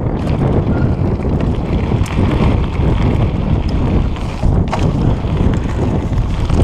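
Wind buffeting an action camera's microphone as a mountain bike rides fast downhill on a dirt trail, with the rumble of the tyres and a few sharp knocks of the bike over bumps.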